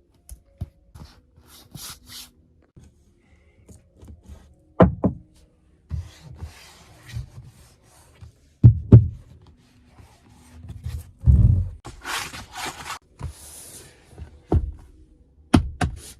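A series of irregular dull thumps and clicks, about six of them loud. There are brief rustling hisses between them near the end.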